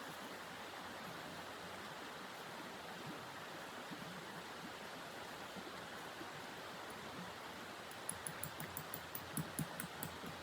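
Steady rushing hiss of blizzard wind. About eight seconds in, a quick run of short, crisp crunching clicks begins, several a second.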